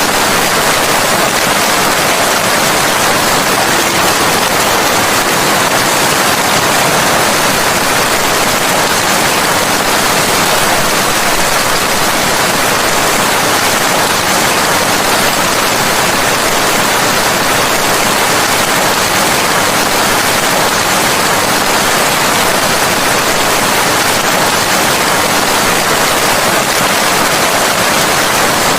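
Steady heavy rain: a dense, even hiss that stays the same throughout, with no single drops or thunder standing out.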